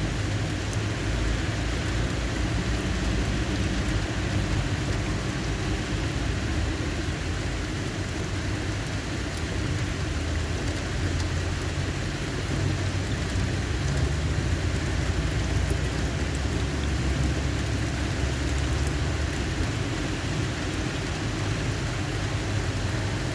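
Steady rain falling in a thunderstorm, with a low rumble underneath that grows stronger in the middle.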